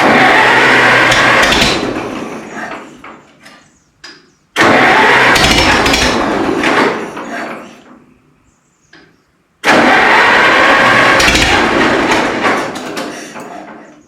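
Minneapolis-Moline tractor engine in three starting attempts: each time it comes in loud and abruptly, holds for about a second and a half, then fades away as it fails to keep running. The engine is not happy; it is popping flames out of the carburetor, which the owner puts down to dirty ignition points rather than timing.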